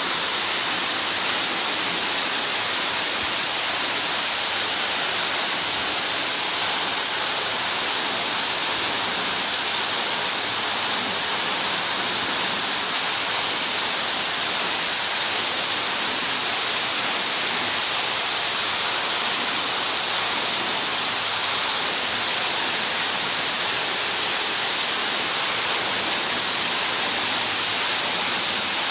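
Small waterfall pouring steadily: a constant, unbroken rush of falling water with a strong hiss.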